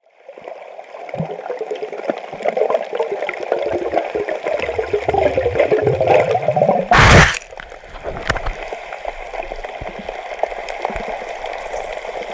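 Sea water sloshing and gurgling, with one short loud rush of water or wind about seven seconds in.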